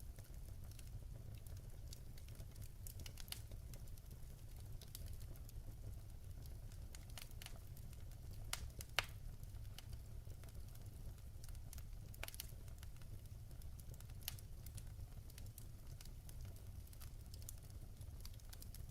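Wood fire burning in a fireplace: faint steady low rumble of the flames with scattered sharp crackles and pops from the burning logs, the loudest pop about nine seconds in.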